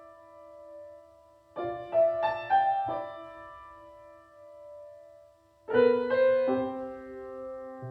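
Slow piano music: small groups of notes struck about a second and a half in and again near six seconds, each left to ring and fade out between.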